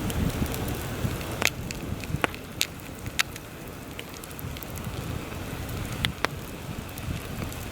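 Campfire crackling, with half a dozen sharp pops, under heavy wind gusting and rumbling in the background.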